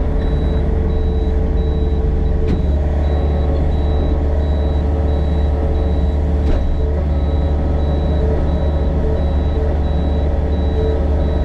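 Excavator's diesel engine running steadily at working speed, a deep even drone, with two light knocks.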